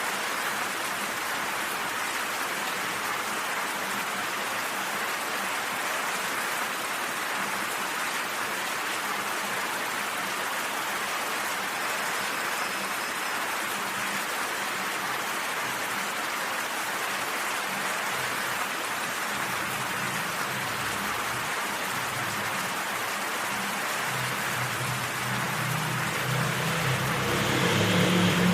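Steady, even rain falling on a surface. In the last few seconds, low deep notes creep in beneath it and grow louder.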